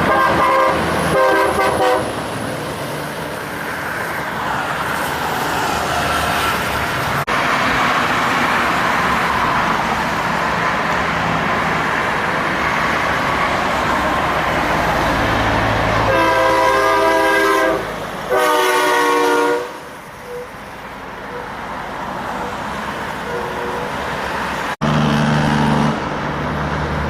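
Semi-truck air horns blasting over passing heavy-truck traffic: a few short blasts near the start, then two long blasts about 16 to 20 seconds in. Diesel truck engines rumble as they pass, loudest about 25 seconds in.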